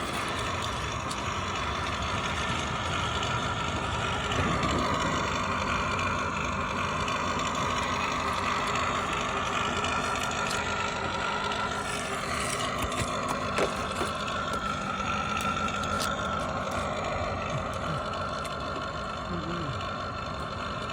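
Radio-controlled toy Corvette's electric motor running steadily, its whine drifting up and down in pitch as the car speeds up and slows, with a few sharp clicks around the middle.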